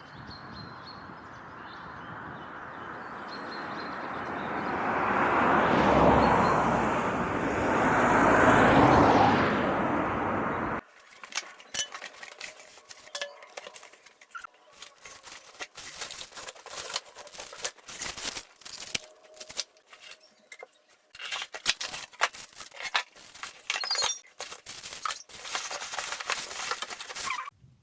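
A steady rushing noise that swells and then stops abruptly about eleven seconds in, followed by a long run of clinks and clatter like glassware and crockery being handled.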